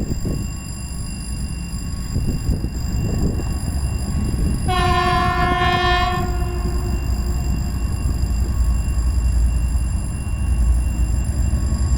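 Freight train hauled by two 2TE10UK twin-section diesel locomotives, with a steady low rumble throughout. About five seconds in, the lead locomotive sounds a single horn blast of one steady note lasting about two seconds.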